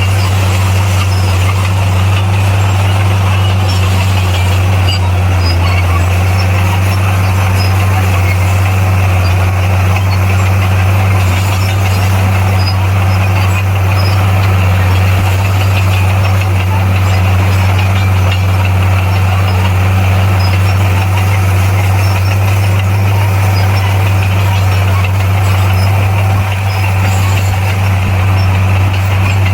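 Diesel engine of heavy earthmoving equipment running steadily with a deep, unchanging hum.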